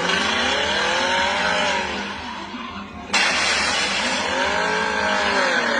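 Car tyres squealing over road and engine noise, in pitched tones that rise and fall. The sound cuts off abruptly about three seconds in and a similar squeal starts again.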